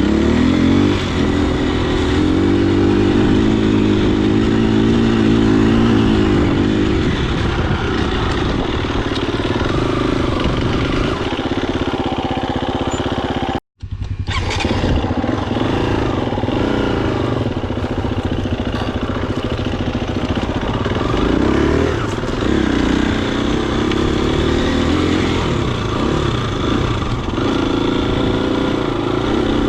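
Husqvarna FE250 dirt bike's single-cylinder four-stroke engine running under way, the revs rising and falling as the throttle is worked. The sound cuts out for an instant a little before halfway.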